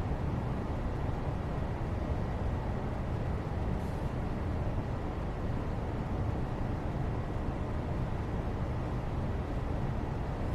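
Steady, unchanging background noise, heaviest in the low range: a white-noise bed for studying.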